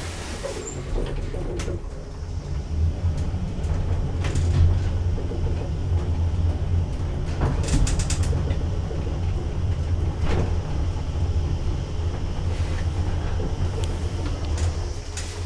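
Astoria Carbonell passenger lift running: a steady low hum from the moving car, with scattered clicks and creaks and a quick run of clicks about halfway through.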